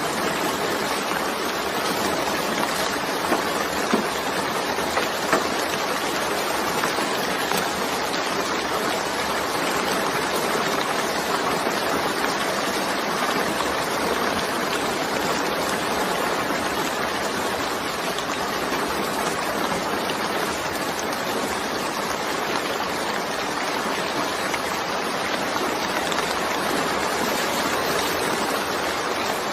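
Steady heavy rain, an even dense hiss, with a few sharper drop ticks a few seconds in.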